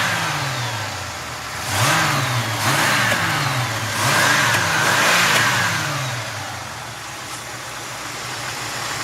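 Car engine revved in three quick blips, each rising and falling back, then settling to a steady idle for the last couple of seconds.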